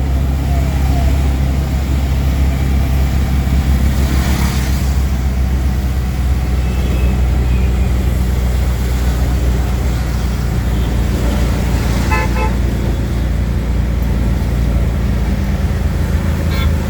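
Auto rickshaw engine running steadily, heard from inside the ride, amid road traffic. About twelve seconds in, a vehicle horn gives a quick string of short toots, with a few more near the end.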